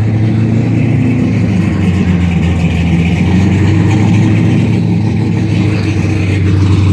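A car engine running steadily at idle, a deep low drone whose pitch shifts only slightly.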